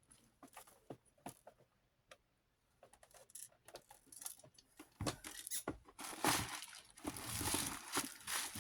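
Hand tools working at the oscillator fastening of a small desk fan: scattered light clicks and taps of metal, then from about halfway a few seconds of louder scraping and rattling as the part is worked at.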